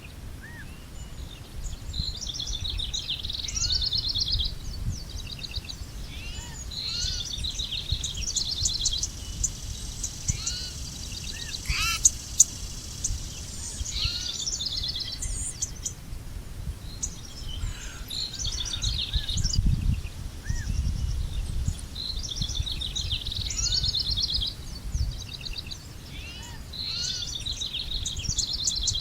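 Songbirds singing outdoors: short trilled and chirping phrases repeating every few seconds, over a steady low rumbling noise. A brief sharp click stands out about twelve seconds in.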